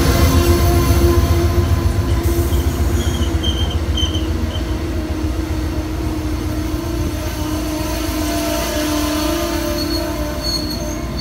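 Train rolling on the track with a heavy low rumble that slowly fades, under a steady whining tone. Brief high wheel squeals come about three to four seconds in.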